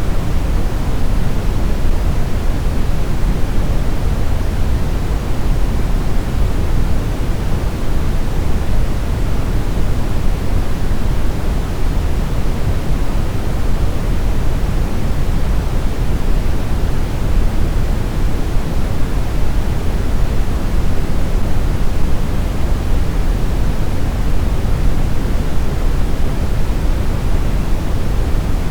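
Brown noise: a steady, even rumbling hiss with most of its weight in the deep end and little top, unchanging throughout.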